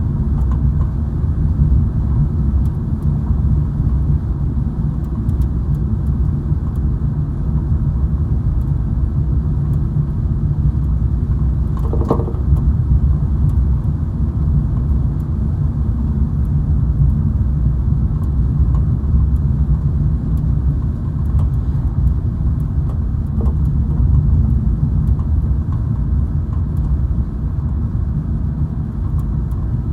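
Steady low road and engine rumble of a car heard from inside the cabin while driving, with one brief faint sound about twelve seconds in.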